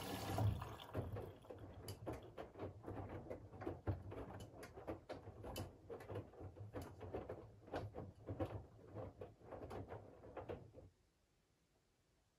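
Front-loading washing machine drum turning during the wash, with the wet laundry tumbling and water sloshing in irregular soft thumps and swishes. The water inflow stops just after the start, and the drum stops near the end.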